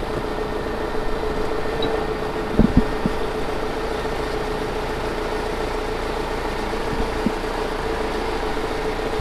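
A vehicle engine running steadily with a constant hum, with a few brief knocks about two and a half seconds in.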